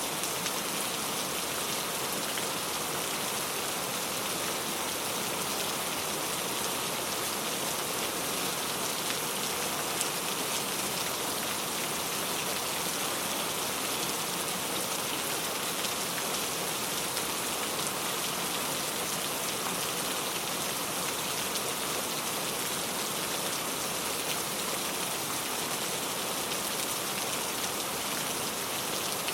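Heavy rain falling and pattering steadily on surfaces, a dense even hiss with no breaks.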